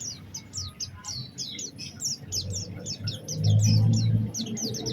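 White-eye (pleci) singing a fast, continuous twittering song of short high chirps and quick downward-sweeping notes. A louder low steady hum comes in about three seconds in.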